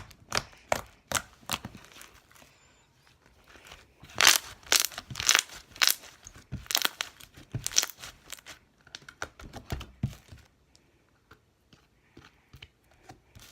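Pink slime being squished and worked by hand for ASMR, making irregular crackling pops and clicks, with a couple of brief pauses.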